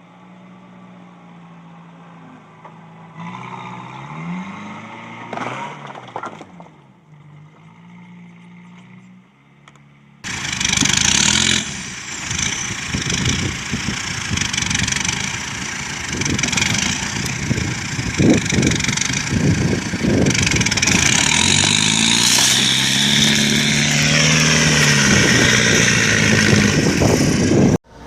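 Motor vehicle engines running and revving, the pitch rising and falling. About ten seconds in, the sound cuts suddenly to a much louder, noisier scene with knocks and another engine revving up and down, then cuts off abruptly near the end.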